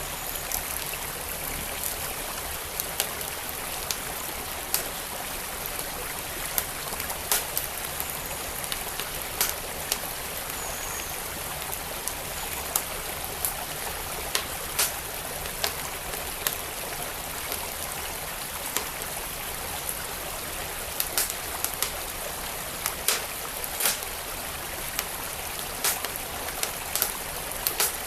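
Wood fire in a fireplace crackling, with frequent sharp irregular pops, over the steady rush of flowing stream water.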